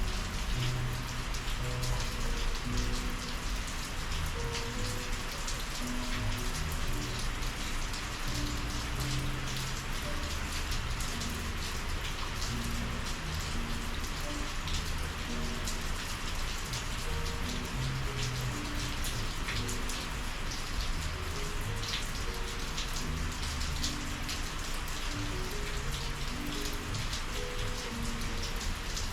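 Steady rain falling, an even hiss with many sharp individual drop strikes through it.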